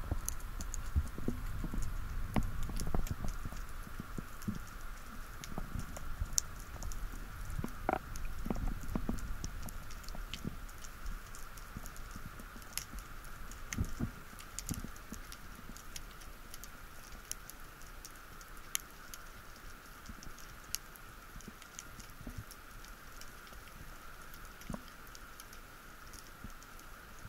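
Underwater ambience: scattered sharp clicks and crackles over a low rumble of water movement that fades out about halfway through, with a faint steady high tone underneath.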